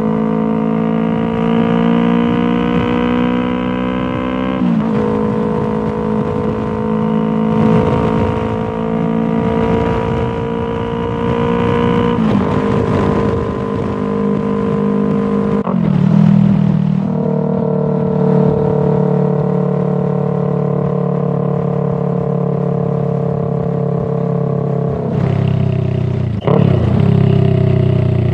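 2019 Yamaha R3's parallel-twin engine running through a Toce full exhaust system with the dB killer installed. The steady note climbs slowly, then drops in pitch about five seconds in, around twelve and sixteen seconds, and again near the end, as the revs change.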